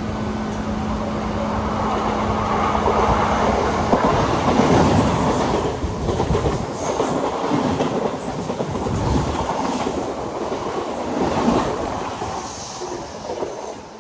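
Western Railway Mumbai suburban EMU local train passing close on the adjacent track, heard from the open doorway of another moving local: rolling rumble and clickety-clack of steel wheels over rail joints, with brief high wheel squeals. The noise swells for most of the time, then eases off near the end.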